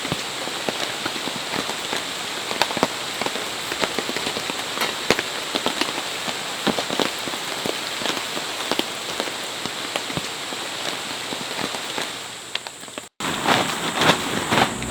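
Steady rain falling, with many individual drops tapping on a surface. About 13 seconds in the sound cuts out for an instant, and the drop hits that follow are louder and closer together.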